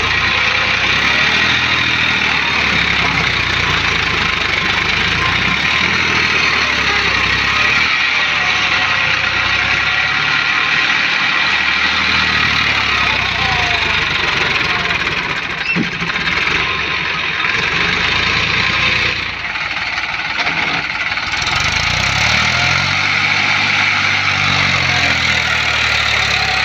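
Eicher 333 tractor's diesel engine working hard under load, its revs rising and falling a few times, with a brief easing about two-thirds of the way through.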